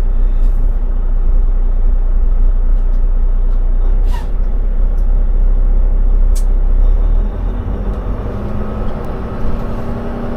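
Volvo semi-tractor's diesel engine and road noise heard inside the cab as a loud, steady low rumble, with a couple of short clicks. About seven seconds in it eases off and a steadier engine hum settles in.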